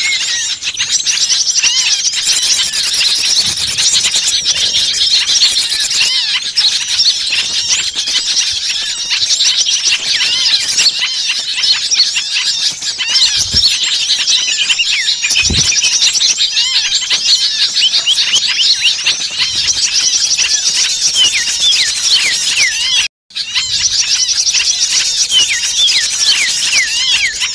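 Many small birds chirping and calling at once in a dense, agitated chorus of rapid, overlapping high-pitched chirps. This is a bird-lure recording of noisy small birds, used to draw other small birds in. The sound cuts out briefly about 23 seconds in.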